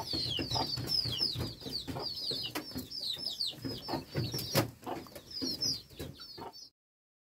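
Chickens calling: a dense chorus of quick, high, falling peeps over lower clucks, with scattered sharp clicks. The sound cuts off abruptly near the end.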